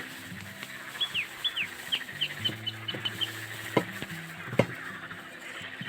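Small songbirds chirping by a pond, a quick run of short high notes and slurred down-sweeping calls about one to three seconds in. Two sharp clicks come near the middle.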